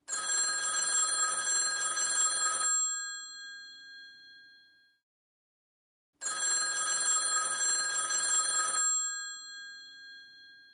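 Old telephone's mechanical bell ringing twice, about six seconds apart. Each ring lasts about two and a half seconds, and the bells ring on and fade after each one.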